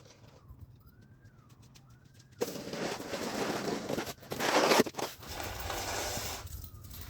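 Snow shovel scraping heavy, wet snow across a driveway, setting in suddenly about two and a half seconds in and loudest just before the five-second mark. Before it, two faint high whines that rise and fall.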